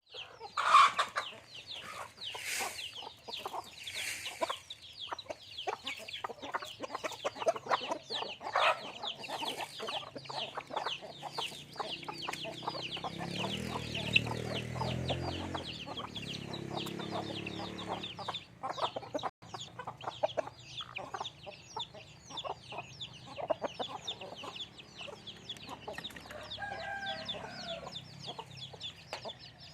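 A flock of chickens clucking and calling, with many quick high-pitched cheeps throughout. A lower, drawn-out call sounds about halfway through.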